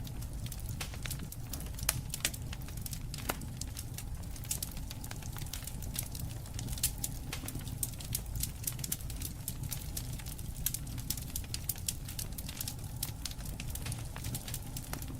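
Wood fire crackling, with many irregular sharp pops over a steady low rumble.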